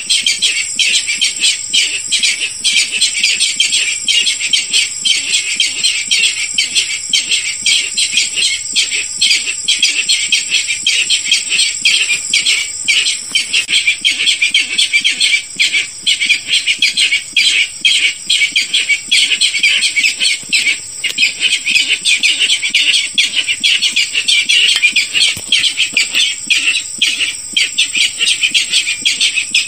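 Barred rail lure call: a loud, dense, unbroken series of rapid harsh calls. Underneath runs a steady, very high insect-like trill that pulses about once a second.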